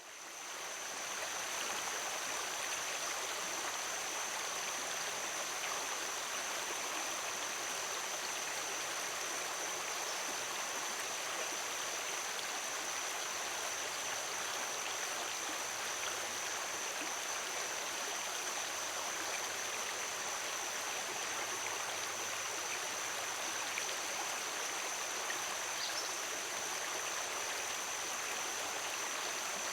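Steady rushing of a flowing stream, fading in over the first second or two. A thin, steady high tone runs above it, with one faint chirp near the end.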